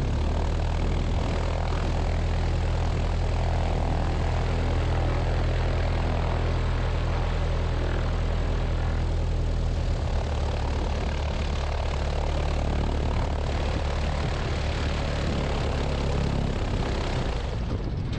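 Light aircraft's engine and propeller running steadily at low taxi power, heard from inside the cabin. Near the end the low engine notes drop away.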